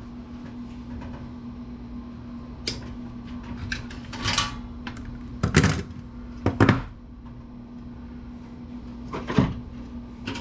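Scattered clicks and knocks of plastic and sheet-metal computer-case parts being handled and pried apart as a desktop PC's front card reader is worked loose, over a steady low hum. Two knocks near the middle are the loudest.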